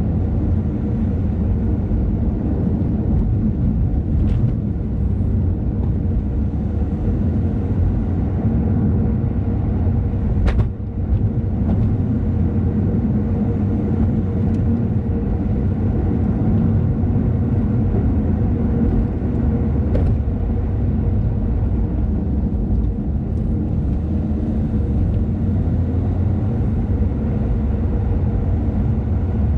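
Car driving along a road: steady engine and tyre rumble with a constant hum. A few short sharp clicks, the strongest about ten seconds in.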